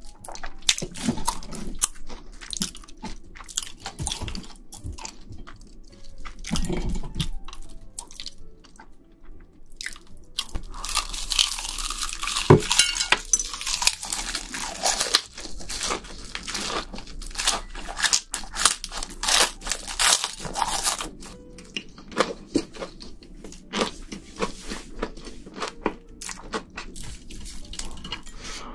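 Close-up crunching and chewing while eating shrimp: a long run of sharp, crunchy bites, densest and loudest for a few seconds about halfway through.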